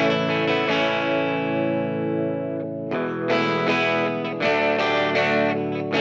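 Background music: guitar chords plucked and left to ring, with effects on the guitar.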